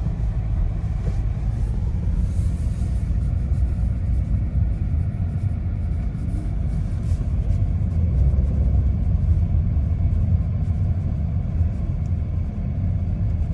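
Steady low rumble of a car driving, heard from inside its cabin: road and engine noise with no distinct events.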